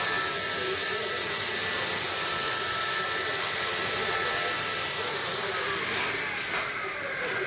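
Walkera 4G3 micro RC helicopter's electric motor and rotors whining steadily in flight, with a high, hissy buzz; about six seconds in the sound falls in pitch and gets quieter.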